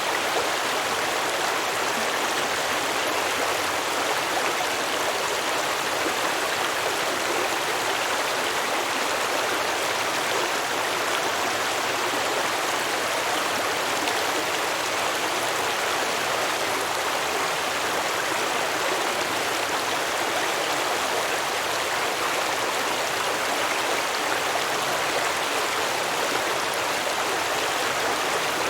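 A small stream flowing and babbling over rocks: a steady, unchanging rush of water.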